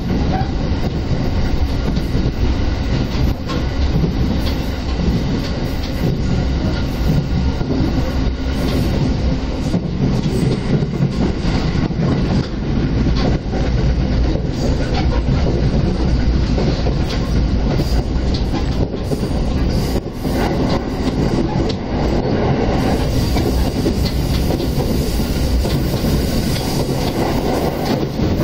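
Inside a JR Keiyō Line electric commuter train running at speed: the steady rumble of wheels on rail with occasional clacks, loud and unbroken. The hiss turns brighter about three-quarters of the way through.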